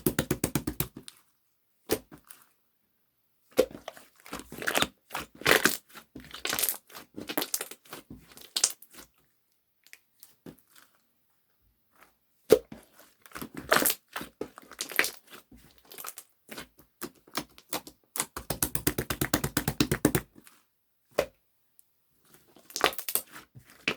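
Close-up crackling and crinkling of handled material, in short bursts with pauses between, and a longer unbroken run of crackles about three quarters of the way through.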